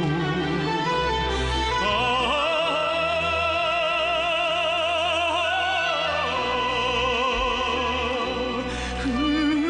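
A Korean-language song with orchestral backing, with a long note held with vibrato through the middle.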